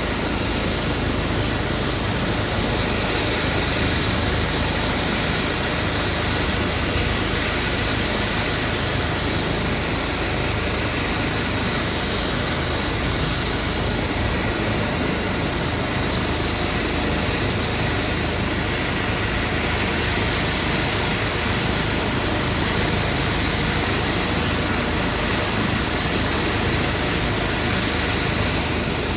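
Airbus EC135 P2 helicopter's twin turbine engines and rotors running steadily at close range: a constant turbine whine over rotor noise, with no clear change in pitch or level.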